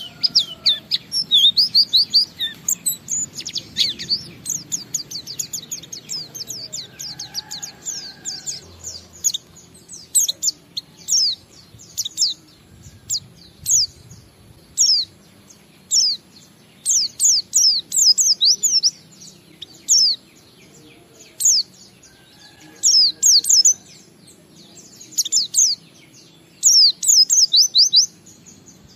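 White-eye (pleci) singing: fast runs of high, steeply falling chirps, dense for the first few seconds, then in short quick bursts separated by brief pauses.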